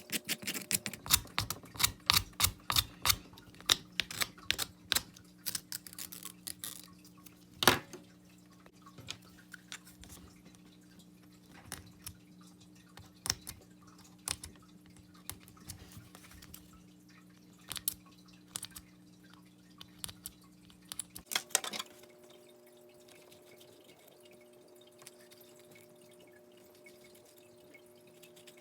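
Light clicking and tapping of a wooden fingerboard and its small parts being handled: quick clicks at first, thinning out to scattered taps over about twenty seconds, then nearly still. A faint steady hum runs underneath.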